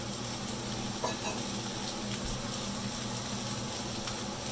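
Fried rice sizzling in hot oil in a pan while being stirred, with a few light clicks over a steady sizzle.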